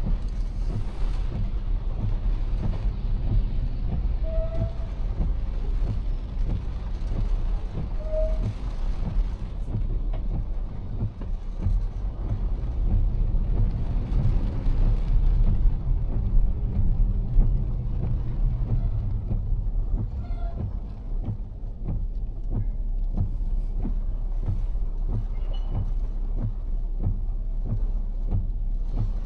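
Car driving in heavy rain: a steady low rumble of engine and tyres on wet road under an even hiss of rain, with many small ticks of drops striking the car.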